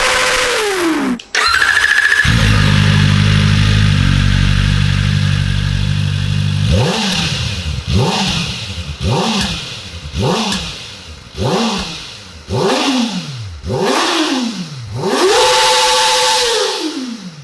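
Kawasaki Ninja ZX-4RR's 399 cc inline-four engine being revved. A held high rev falls away and the sound briefly drops out, then the engine idles steadily. A string of quick throttle blips follows, about one a second, and near the end comes a longer held rev that falls back to idle.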